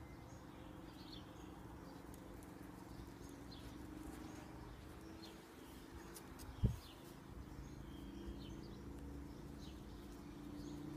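Small birds chirping now and then, faintly, over a low steady hum, with a single dull thump about two-thirds of the way through.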